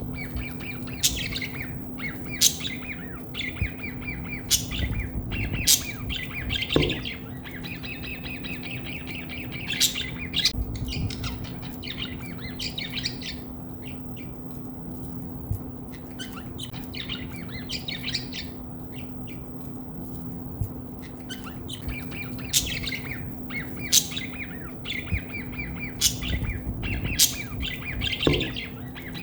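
Budgerigars chattering and warbling without pause, broken by frequent sharp, brief squawks, over a steady low hum.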